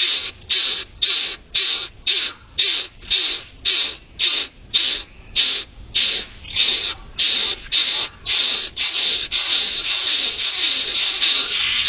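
Coucal nestlings hissing in quick, even bursts of about two to three a second; the bursts run together into an almost continuous hiss near the end.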